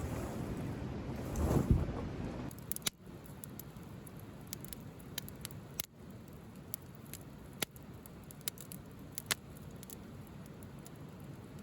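Wood fire crackling: scattered sharp pops over a low steady hiss. A louder rushing noise fills the first two seconds or so.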